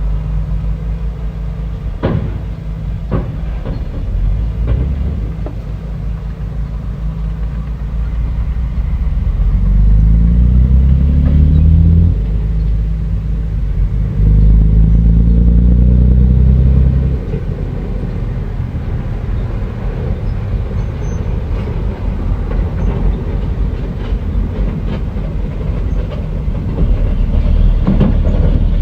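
Bulldozer's diesel engine working, with a few sharp clanks early on. It revs up twice under load, rising in pitch and getting louder, about ten seconds in and again about fourteen seconds in.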